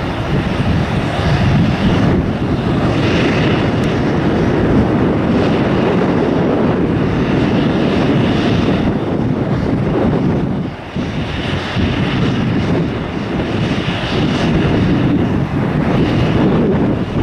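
Airliner engines running loud and steady, a continuous rush as the plane passes, with a brief dip about eleven seconds in.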